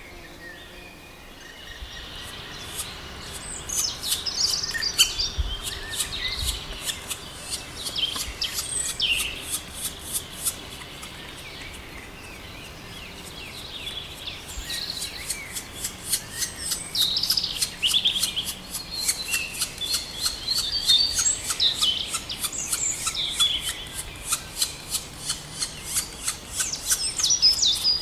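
Black woodpecker tapping at wood in two long runs of sharp knocks, about three a second, with pauses between. Bird chirps sound over the knocks.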